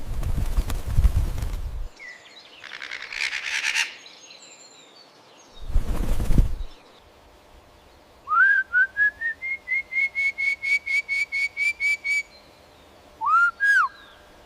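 Bird calls. A bird gives a run of about eighteen short whistled notes over some four seconds, rising at first and then holding steady in pitch, and near the end two arched, falling-off whistles. Earlier there is a harsh, noisy call between two loud rushing bursts of noise.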